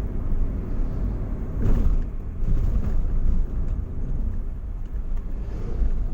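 Steady low rumble of a motor vehicle on the move, with a brief louder swell about a second and a half in.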